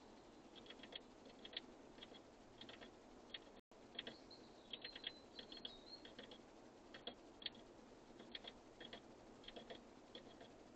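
Faint, quick taps of birds pecking at seed on a feeder, coming in little clusters of two or three clicks every second or so, with a faint thin high note in the middle.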